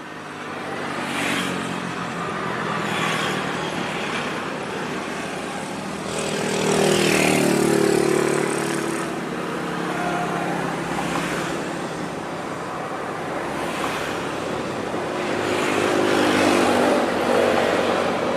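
Passenger train approaching behind a KAI diesel-electric locomotive: the engine's steady running note under the rumble of wheels on rail as it crosses a steel truss bridge. It swells about a second in and gets louder again twice.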